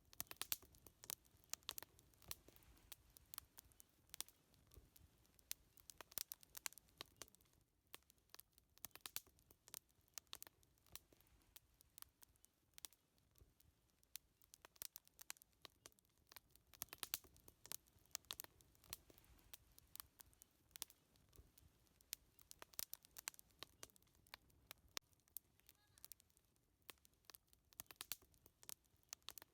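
Wood fire crackling: many irregular sharp pops and snaps, some coming in quick clusters.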